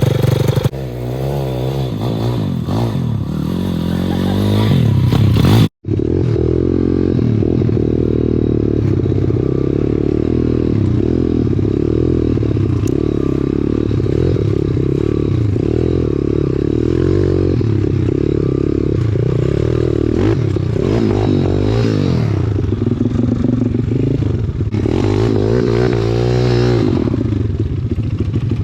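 Pit bike's small single-cylinder engine running while riding, its pitch rising and falling constantly as the throttle is worked. The sound drops out for an instant about six seconds in.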